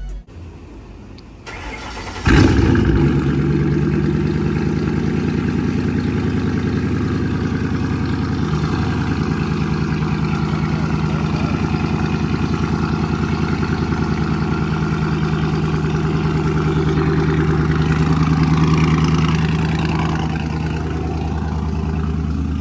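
Car engine starting with a sudden loud flare about two seconds in, then settling into a steady idle. The idle swells slightly near the end before easing back.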